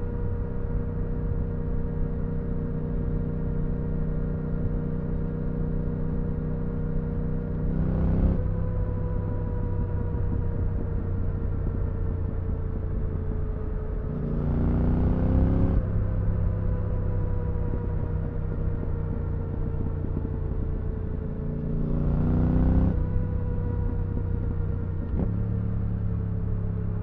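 Yamaha R7's 689 cc CP2 parallel-twin engine through an IXIL Dual Hyperlow aftermarket exhaust with its dB-killer fitted, ridden on the road. The engine note sinks slowly in pitch, with revs climbing sharply three times, about 8 s in, around 15 s and around 22 s, leaving the note higher each time before it sinks again.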